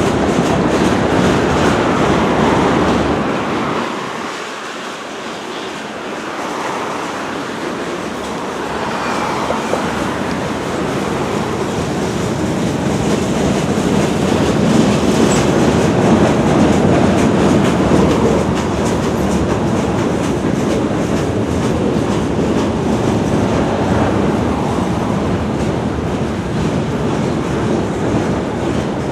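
A CSX freight train rolling past, its wheels running over the rails in a continuous loud rumble. The sound eases for a couple of seconds about four seconds in, then builds up again.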